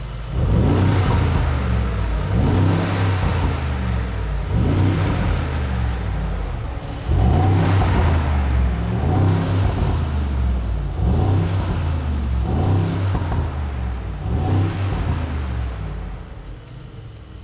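Mercedes-AMG G 63's 4.0-litre twin-turbo V8, in Sport Plus mode, revved repeatedly with the SUV standing still: about a dozen short blips, each rising and falling in pitch, with the engine idling between them. It settles to a quieter idle near the end.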